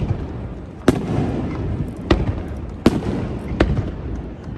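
Aerial fireworks shells bursting: four sharp bangs about a second apart over a continuous low rumble and crackle.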